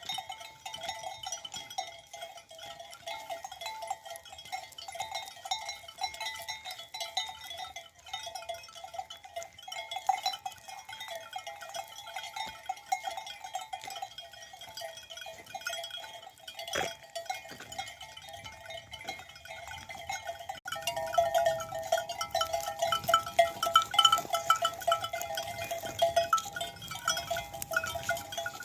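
A flock of sheep bleating, many calls overlapping continuously, growing louder about two-thirds of the way through.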